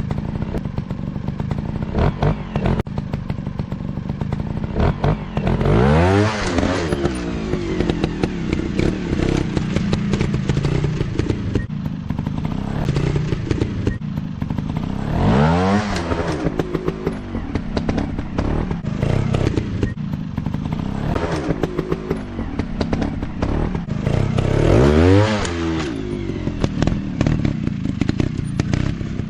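Dirt bike engine running off-road, revved hard three times, about ten seconds apart, each rev climbing and falling back, with clattering and knocks from the bike over the ground in between.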